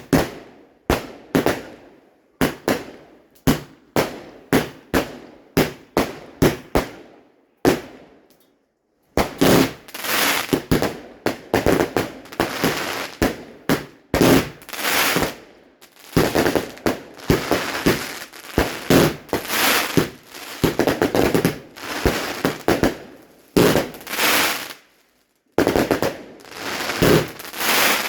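Fireworks going off: single sharp bangs about twice a second for the first several seconds, each trailing off. After a short gap, a long run of rapid crackling bangs follows, broken by a brief pause near the end.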